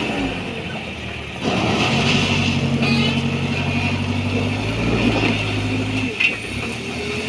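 Diesel engine of a JCB backhoe loader working, easing off briefly and then revving up about a second and a half in and holding a steady, busy note, with a sharp metallic knock about six seconds in.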